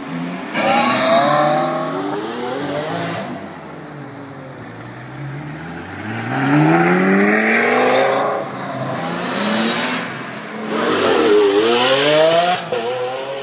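Lamborghini supercar engines, among them a Gallardo's V10, revving hard and accelerating away, the pitch climbing in several long runs and dipping briefly before climbing again near the end.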